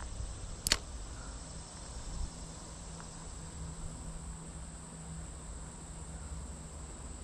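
Insects trilling steadily on one high note, with a low steady rumble beneath. A single sharp click sounds about a second in.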